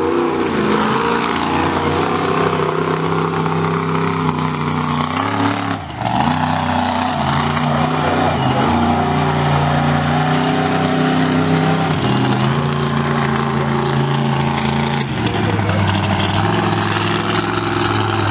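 Monster truck engine running hard, its pitch stepping up and down again and again as the throttle is worked, with a brief drop about six seconds in.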